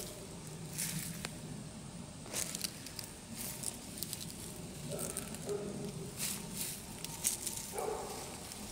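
Soil and plant stems rustling and crackling in irregular short scrapes as herbs are dug up and pressed into a pot of soil.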